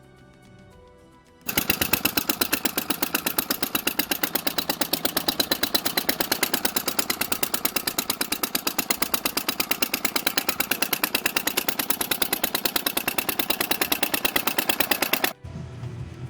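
A small single-cylinder engine, the Mayrath tractor's 8-horsepower Briggs & Stratton, running at a steady speed with rapid, even exhaust pulses. It starts abruptly about a second and a half in and cuts off abruptly near the end.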